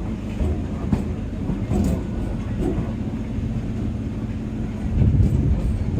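EMU local train running, heard on board: a steady low rumble of wheels on rails with a few light clicks, swelling a little louder near the end.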